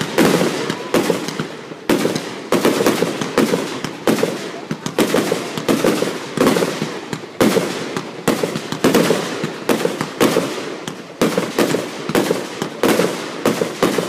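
Aerial fireworks going off in quick succession: a steady run of sharp bangs, about two a second, each trailing off before the next.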